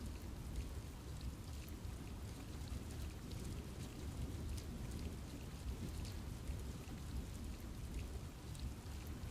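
Steady rain falling in a forest, with a low rumble underneath and individual drops ticking on leaves.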